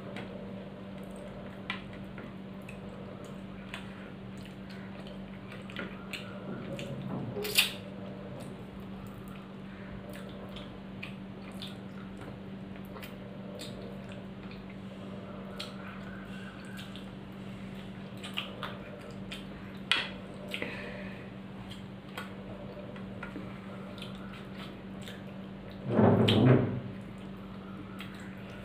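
Wet chewing and mouth sounds of a person eating rice by hand, with small clicks and scrapes of fingers on a ceramic plate, over a steady low hum. A sharp click comes about seven seconds in, and a brief louder noise comes near the end.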